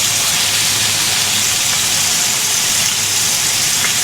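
Chicken wings frying in hot oil in a pan as they brown: a loud, steady sizzle.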